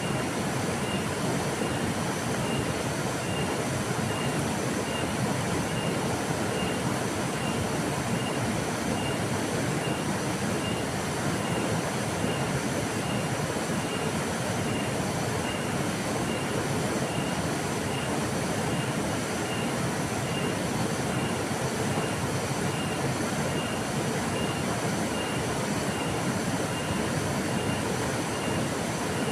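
Flowing river water rushing steadily, with a faint high chirp repeating about twice a second over it.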